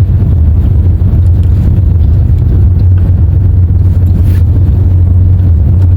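Loud, steady low rumble of a moving vehicle, unchanging throughout.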